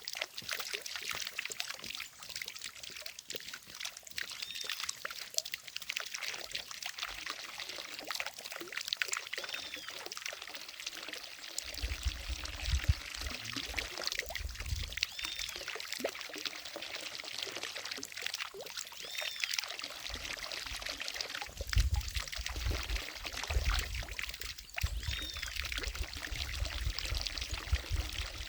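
Water falling steadily from a fountain and splashing into a lake, a continuous pouring and splashing. Bursts of low rumble come in now and then through the second half.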